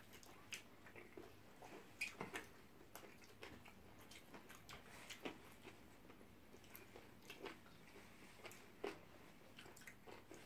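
Faint chewing and biting of shawarma wraps: soft, irregular mouth clicks and smacks, with a few louder ones spread through.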